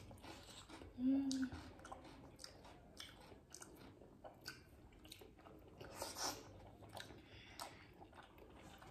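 Close-up chewing of steamed chicken momos: soft, wet mouth clicks and smacks, with a short hum from the eater about a second in.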